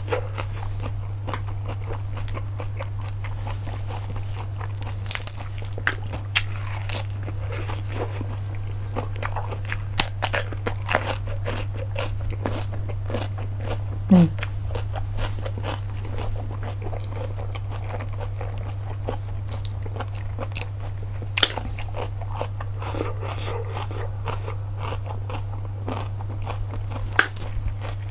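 Close-miked eating of cockles: scattered sharp clicks and crunches of shells and chewing, over a steady low hum. A brief, louder falling sound comes about halfway through.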